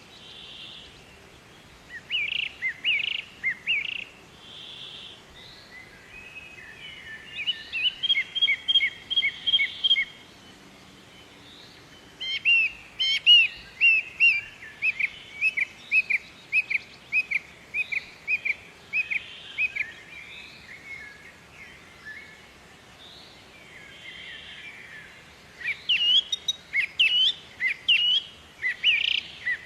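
Songbird singing: bouts of quick, repeated chirping notes, with pauses between the bouts.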